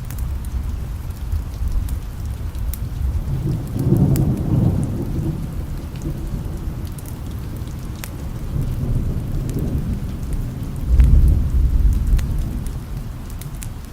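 Thunder rumbling over steady rain: a deep rumble swells about four seconds in, again a little later, and is loudest near the end, with scattered sharp ticks over the rain.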